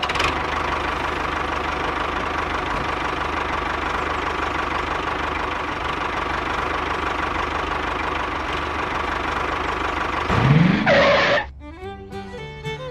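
A small motor runs steadily for about ten seconds with an even, engine-like drone and a faint steady hum. About ten seconds in a rising whoosh cuts in, and music starts near the end.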